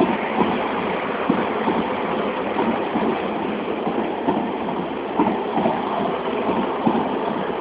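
SNCF train passing on the line, a steady rolling noise broken by irregular clacks of the wheels over rail joints.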